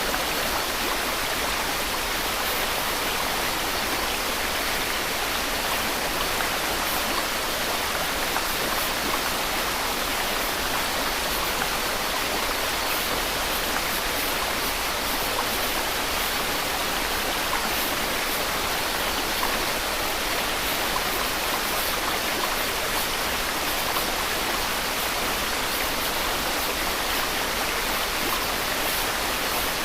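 Steady white noise: an even, unchanging hiss, stronger in the upper range and thin in the bass, with no breaks or changes.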